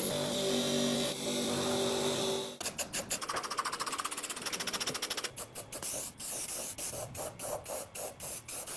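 A small machine running with a steady whirr, then a fast, even mechanical clatter of about ten ticks a second that slows about halfway through to about three a second.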